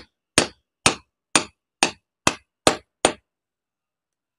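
Hammer blows knocking the spindle out of an angle grinder's gear head to free its worn gear: about seven sharp, evenly spaced strikes, roughly two a second, stopping a little after three seconds in.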